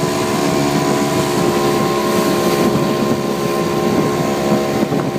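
Small motorboat's engine running at a steady speed, over a steady hiss.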